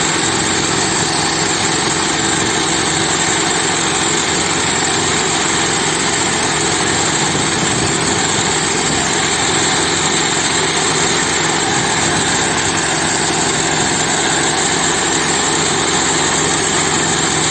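Tractor engine running steadily at a constant speed, loud and even throughout.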